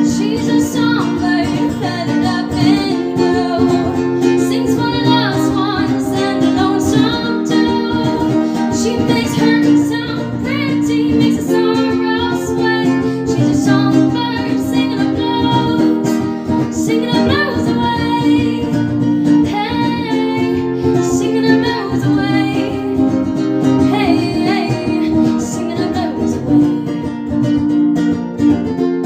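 A woman singing a country song to her own strummed acoustic string accompaniment.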